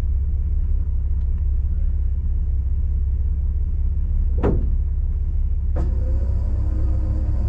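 Off-road vehicle's engine running with a steady low rumble. About four and a half seconds in there is a brief sharp sound falling in pitch. A second later comes a click, after which steady higher tones join the rumble.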